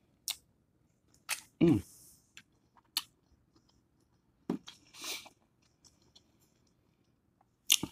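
Close-miked mouth sounds of eating a sauced shrimp: scattered wet smacks and crunches of biting and chewing, with a short falling hum about two seconds in.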